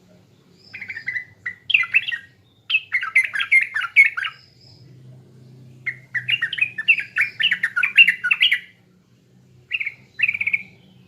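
Yellow-vented bulbul (trucukan) singing in four bursts of rapid, bubbly chattering notes with short pauses between them. This is the lively 'ngacor' song used as bait song to set off kept birds.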